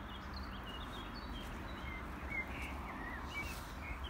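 Birds calling in many short chirps, over a steady low background rumble.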